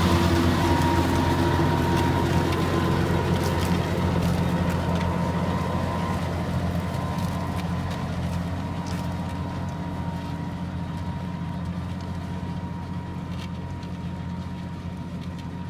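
John Deere 6140R tractor's six-cylinder diesel engine running steadily while ploughing, fading gradually as the tractor moves away.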